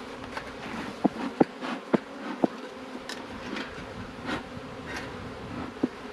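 Honeybees from a nuc buzzing steadily in numbers, agitated. A few sharp knocks come in the first half and once more near the end.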